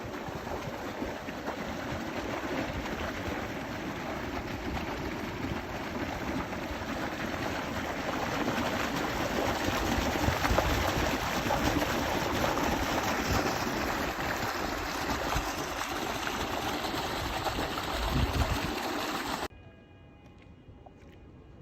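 Steady rush of running water, with wind buffeting the microphone in low flutters; it cuts off abruptly near the end.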